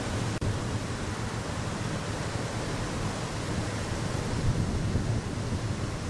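Steady wind rushing over the microphone outdoors, with a buffeting low rumble and a very brief dropout about half a second in.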